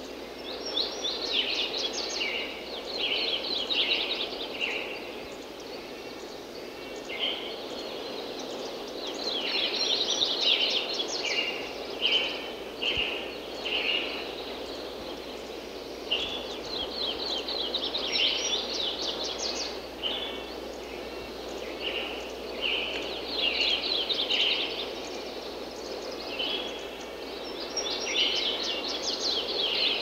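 A songbird singing the same quick, high phrase over and over, each phrase lasting a couple of seconds with gaps of a few seconds between, over a steady background hiss.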